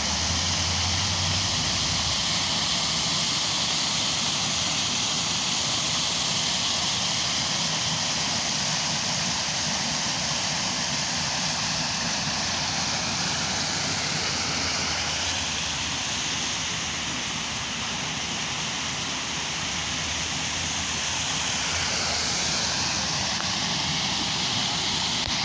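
Waterfall: a steady rush of falling water, dipping slightly in loudness about two-thirds of the way through.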